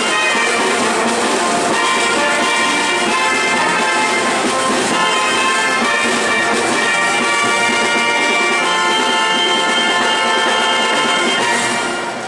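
Brass band playing a marinera norteña, with trumpets and trombones carrying the melody. The music fades down just before the end.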